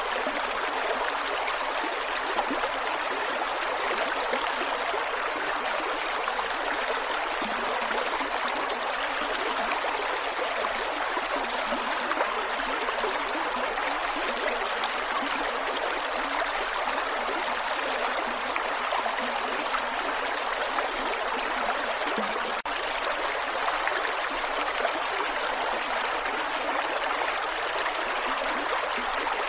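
Creek water flowing and gurgling over rocks in a steady rush.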